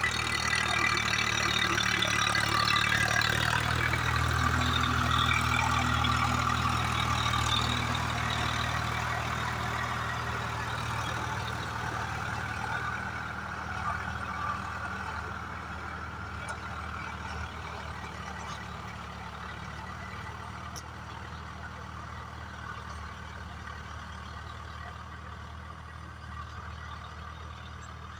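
Swaraj 744FE tractor's three-cylinder diesel engine running steadily while pulling a rotavator, loudest a few seconds in and then growing gradually fainter.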